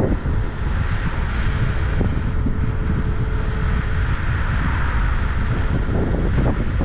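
Wind buffeting the microphone while riding, a steady low rumble, with a faint thin whine for a couple of seconds in the middle.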